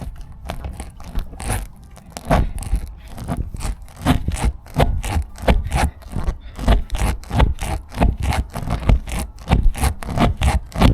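Spiral rasp tool of a tubeless tyre plug kit being worked in and out of a puncture in the tyre tread, reaming out the hole before a plug goes in: a long run of short rasping scrapes, about two to three a second, quickening in the second half.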